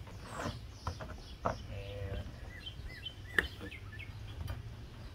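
Birds chirping in short high notes, mostly in the middle stretch, over a steady low hum, with a few sharp taps, the loudest about three and a half seconds in.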